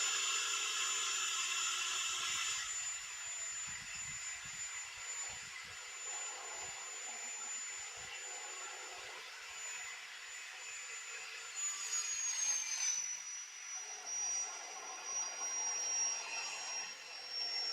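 Cut-off saw motor running with a steady high-pitched whine, louder for the first few seconds; about twelve seconds in the whine drops slightly in pitch and stays lower.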